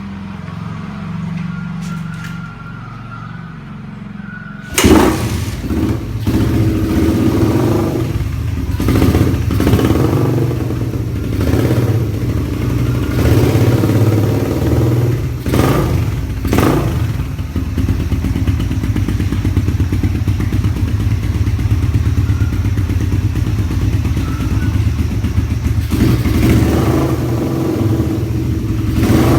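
Suzuki Satria FU's 150 cc single-cylinder four-stroke engine through a gutted 'bobokan' exhaust. About five seconds in it comes on suddenly and loudly, then is blipped up and down with the throttle several times. It settles to a steady loud running, and is blipped again near the end.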